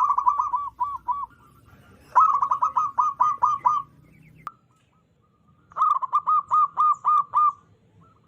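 Zebra dove cooing in three bouts of quick, staccato notes, each bout about one and a half seconds long, with short pauses between them.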